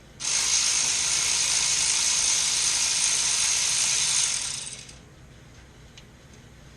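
A ratchet wrench spinning a bolt, giving a continuous rapid ratcheting rasp for about four seconds that tapers off and stops about five seconds in.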